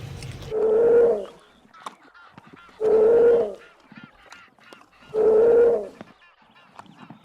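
A cat meowing three times, about every two seconds, each meow a long call held at a level pitch, with faint clicks and taps between.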